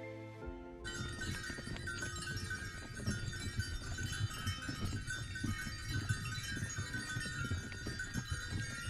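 Background music cuts off within the first second, then livestock with bells: a steady jingling of bells and animal calls over many small knocks.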